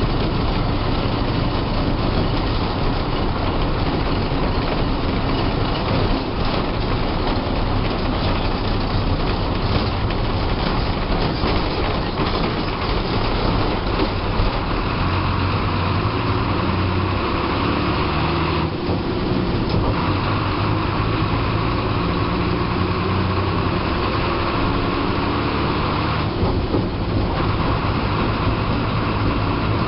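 Diesel engine and road noise of a TSRTC bus on the move, heard from inside the driver's cabin. The engine note shifts in pitch in the second half, and the higher hiss drops out briefly twice.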